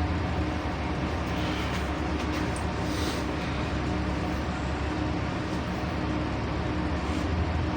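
LiAZ-5292.65 city bus heard from inside the passenger cabin while under way: a steady engine and road hum with a constant low drone.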